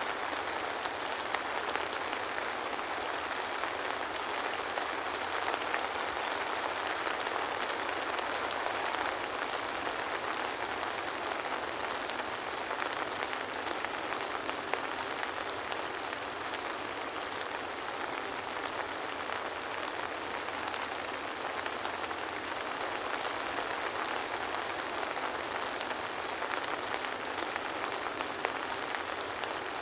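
Steady soft rain falling, a dense patter of drops with no thunder.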